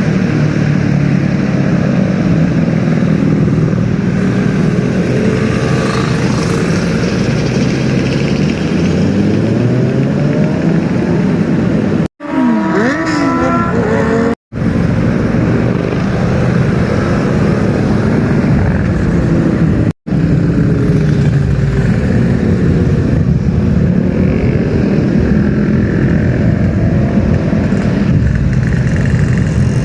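Superbike engines running and revving, several at once, their pitch rising and falling as they rev and pass. The sound drops out abruptly three times at clip cuts.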